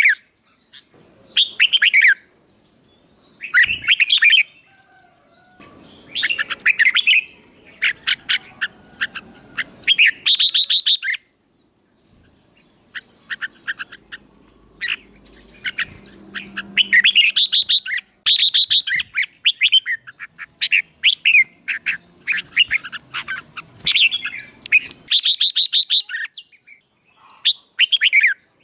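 A songbird singing in repeated short bursts of rapid chirping phrases, with brief pauses between the bursts.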